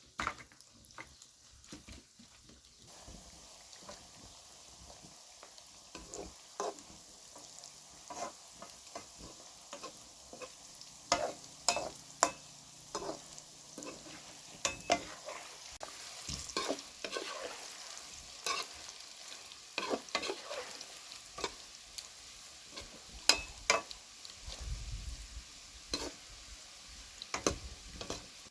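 Food sizzling in hot oil in a pan, a steady frying hiss that sets in about three seconds in, with repeated sharp clicks and scrapes of a utensil stirring and turning the food.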